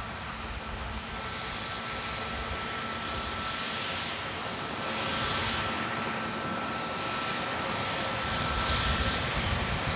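Jet airliner's engines growing steadily louder as it approaches, a dense roar with a steady high whine over it.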